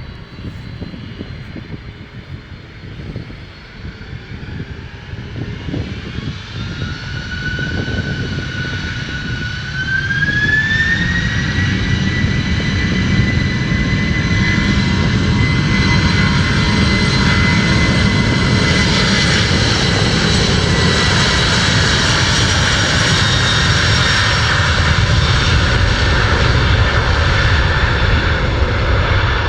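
Boeing 747's four jet engines spooling up for takeoff: a whine rises in pitch from about six to eleven seconds in, then holds steady over a loud rumble as the engines run at high thrust.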